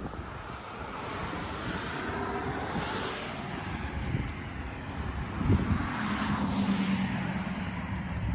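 Engine noise that swells and fades twice, with a steady low hum in the second swell and wind on the microphone.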